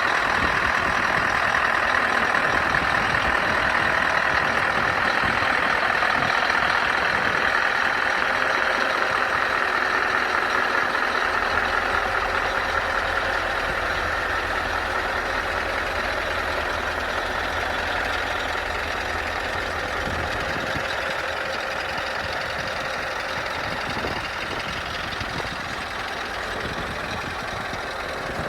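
2012 Scania R560 truck's V8 diesel engine running steadily, slowly growing a little quieter.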